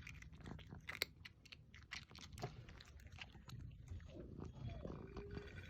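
Cats chewing and crunching their food, with many small bites and clicks. About four seconds in, a mastiff whines faintly for about a second.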